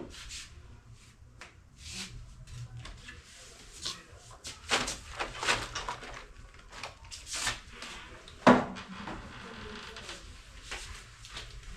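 Irregular knocks and clatters of objects being handled, the loudest about eight and a half seconds in.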